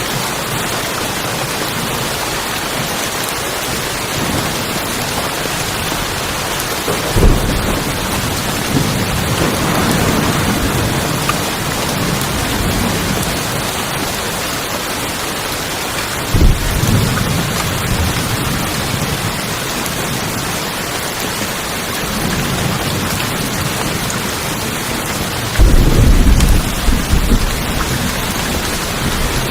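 Steady heavy rain on tin roofs, with low rumbles of thunder breaking in about 7 seconds in and again about 16 seconds in, and a louder roll of thunder from about 26 seconds on.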